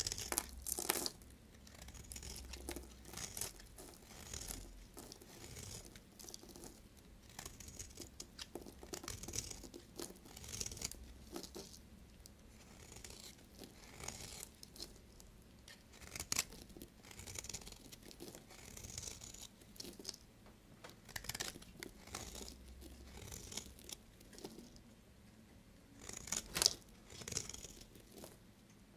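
A knife cutting through bars of soap: a string of crisp scraping strokes at uneven intervals, with a sharper, louder one near the end.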